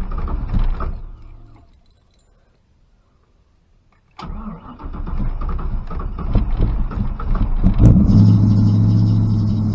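Supercharged 351 V8 of a 1986 Fox-body Mustang cranking on the starter for a hard start. One attempt dies out in the first second and a half. After a pause of a couple of seconds it is cranked again, fires unevenly, and catches about eight seconds in, settling into a steady idle. The hard starting is a fault that began after the 351 swap with the Terminator X injection.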